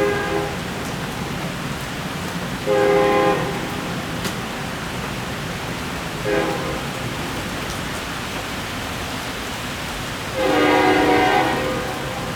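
Diesel locomotive horn of an NJ Transit MP20B-3 sounding three blasts, a short one between two longer ones, the last the longest, over steady heavy rain.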